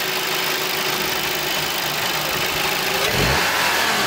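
VW Passat B7's 1.8 TSI turbocharged four-cylinder petrol engine idling steadily, with a short low swell about three seconds in.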